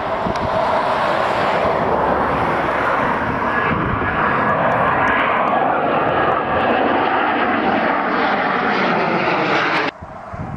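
Panavia Tornado's twin RB199 turbofans at full power with afterburner on take-off: loud, steady jet noise that cuts off suddenly near the end.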